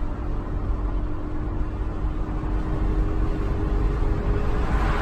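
Steady road and engine noise inside a moving car at highway speed. The tyre and wind noise swells slightly near the end.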